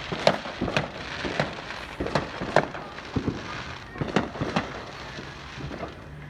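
Fireworks going off as a run of sharp, irregular pops and bangs, about two a second, thinning out near the end.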